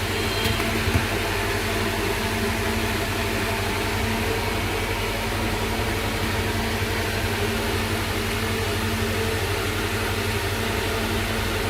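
Steady machine hum with a constant hiss, like a fan or motor running, with a faint click about a second in.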